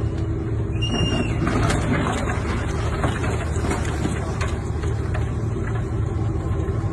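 Ships colliding: a steady low rumble with scattered cracks and creaks, and a brief high squeal about a second in.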